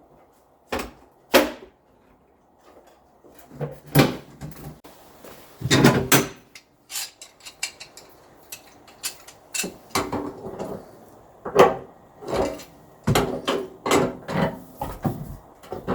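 Irregular clunks, clicks and knocks of tools and hardware being handled, sparse at first and coming thick and fast in the last several seconds.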